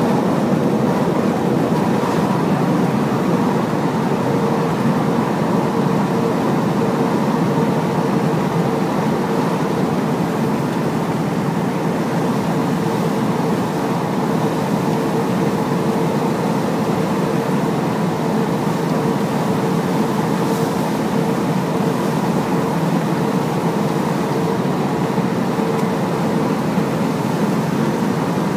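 Hino large truck on the move, a steady blend of engine and road noise with a constant faint whine held at one pitch.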